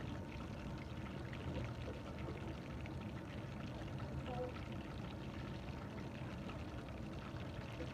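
Chicken drumsticks coated in corn starch deep-frying in hot oil: a steady sizzle full of fine crackles.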